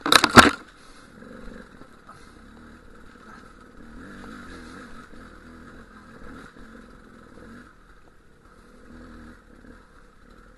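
Dual-sport motorcycle engine running at low speed over rough rocky trail, with two loud knocks in quick succession right at the start.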